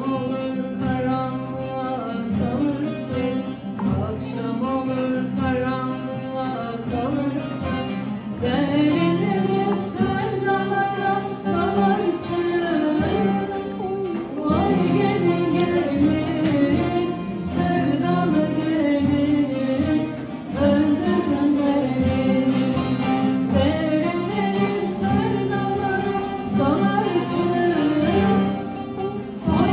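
A Turkish folk lament sung in a slow, wavering melody over a plucked string instrument.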